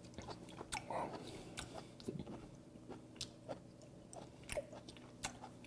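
Faint close-miked chewing of raw stone sea squirt, with wet mouth clicks and smacks, and light ticks of metal chopsticks picking flesh from the leathery shells.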